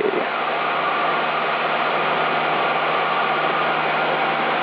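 Steady cabin drone of a Cessna 172's engine and propeller in cruise flight, heard through the headset intercom as an even, hissy noise with a faint hum.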